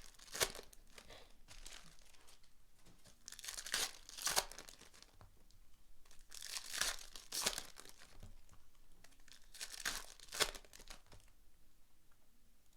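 Trading card pack wrappers being torn open and crinkled by hand, in four bursts of ripping with rustling between them.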